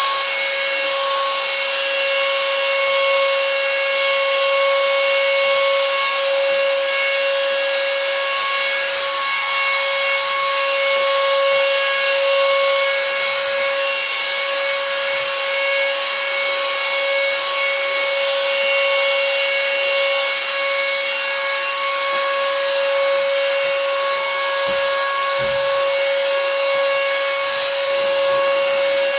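Handheld vacuum cleaner running steadily: a constant motor whine over the hiss of rushing air.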